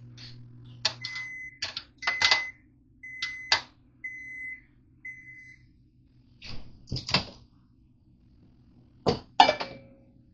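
A microwave oven's running hum stops about half a second in, and its end-of-cycle signal beeps five times, about once a second, at one steady high pitch: the heating is done. Sharp knocks and clatter of things being handled sound among the beeps and again near the end.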